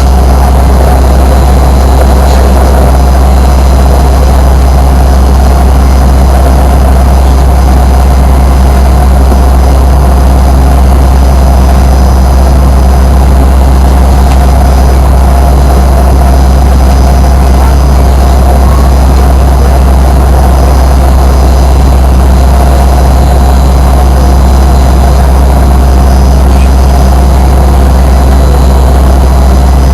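Fokker 100 airliner's rear-mounted Rolls-Royce Tay turbofan engines heard inside the cabin. They run steadily with a loud, deep drone and a steady tone, and the sound does not change.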